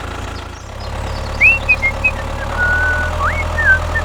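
Steady engine hum that steps up a little in pitch partway through, with a few short high chirping glides over it.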